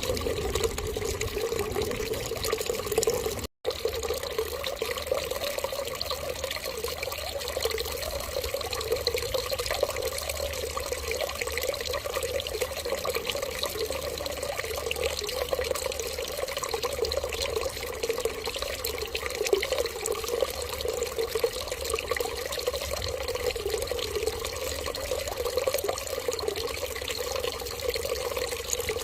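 Water running steadily, like a tap left running, with a split-second gap about three and a half seconds in.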